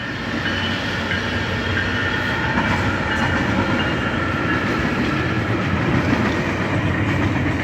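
Tri-Rail commuter train passing, a steady rumble of wheels on the rails with a low hum underneath.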